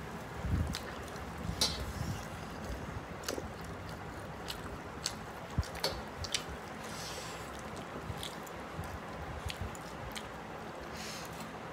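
Close-up sounds of someone eating mutton biryani by hand: wet chewing and squishy mouth noises with many small scattered clicks and a few short hissy smacks.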